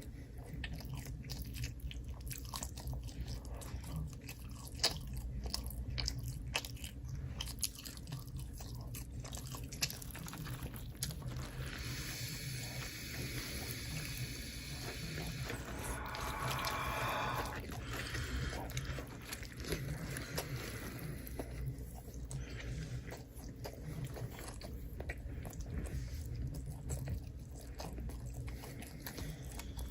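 Close-miked eating: crunchy bites and chewing, many sharp crackles. Partway through, a longer hiss of several seconds breaks in and ends with a short pitched stretch.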